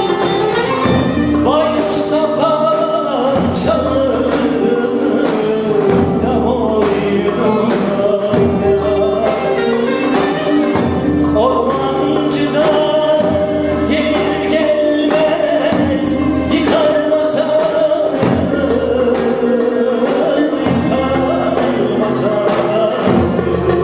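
A male voice singing a Turkish folk song (türkü) from the Muğla region, with live instrumental accompaniment.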